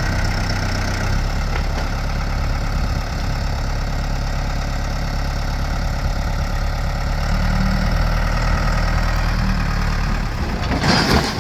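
Backhoe's diesel engine running steadily under load while dragging a tree in reverse, with a short burst of noise near the end.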